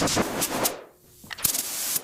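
Paint spray gun hissing, fading away to near silence about halfway through. A sharp crack follows, and the spray hiss starts again near the end.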